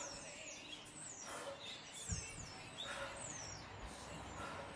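A small bird calling in the garden: short, high chirps that fall in pitch, repeating about once a second. A single dull low thump about two seconds in.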